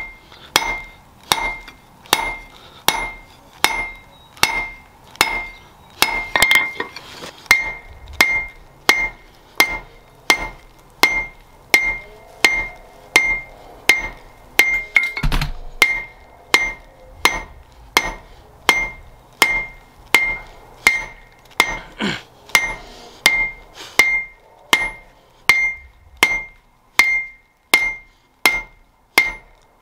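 Blacksmith's hand hammer striking steel on an anvil in a steady rhythm, a little under two blows a second, each blow leaving a bright metallic ring.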